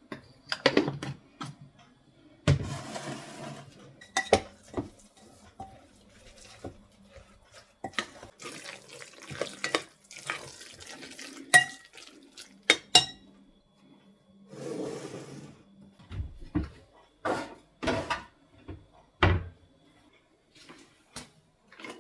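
Dishes and cutlery clinking and knocking at a kitchen sink, with the tap running in three short spells of a second or two.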